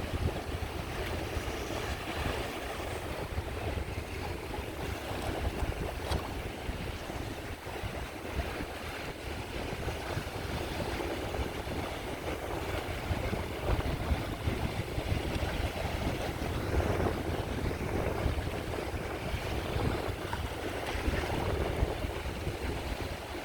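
Sea waves washing onto a beach in gentle swells, with wind buffeting the microphone as a low, unsteady rumble underneath.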